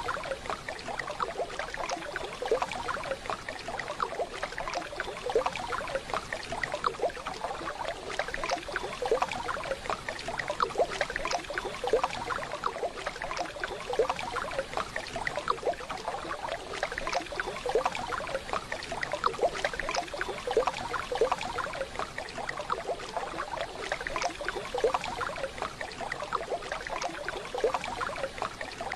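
Waterfall running water: a steady splashing, bubbling rush.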